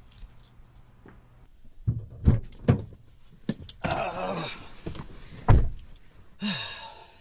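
A series of heavy thumps and knocks, like a door being handled. The loudest comes about five and a half seconds in. Between them are two short pitched sounds that fall in pitch, about four and six and a half seconds in.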